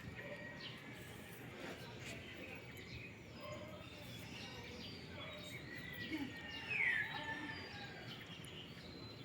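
Birds chirping, with many short calls overlapping over a steady background hiss, and one louder call falling in pitch about seven seconds in.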